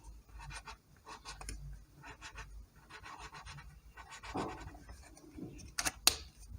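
Colouring on paper: a drawing tip scratching in quick back-and-forth strokes while colouring in spots, with a few sharper strokes near the end.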